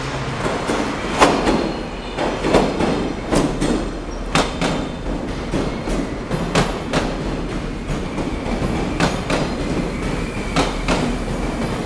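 Train running on the rails: a continuous rumble with many sharp, irregular clacks and clanks from the wheels on the track.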